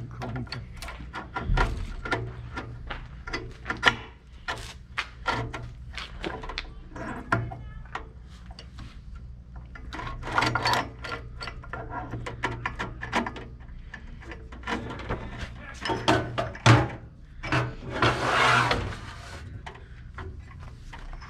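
Hand tools and metal parts clicking, clinking and knocking at irregular intervals, with a short hissing rush about three quarters of the way through, over a steady low hum.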